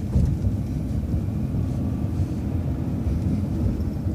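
Transit bus running steadily, a low, even engine and road noise.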